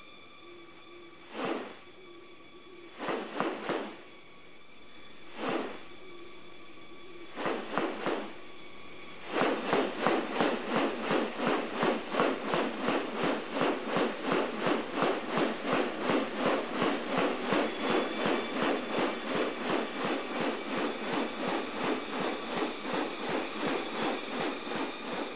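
Steady high drone of rainforest insects. Over it come a few short rustling sounds, then from about nine seconds in a fast regular series of pulses, about three a second, until the end.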